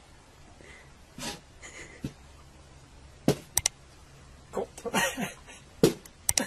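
Baby goat butting a glass mirror and scrabbling its hooves on a tiled floor: scattered sharp knocks and taps, one strong knock about three seconds in followed by a quick pair, and another near the end also followed by a quick pair, with softer scuffs between.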